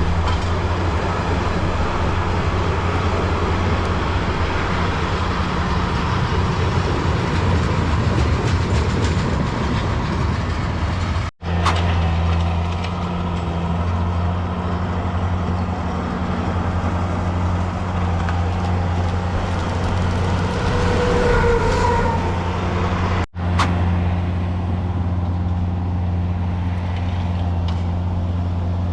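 A train running on the line, with a steady low hum over rumbling rail noise. The sound cuts out abruptly twice, once about eleven seconds in and again near twenty-three seconds.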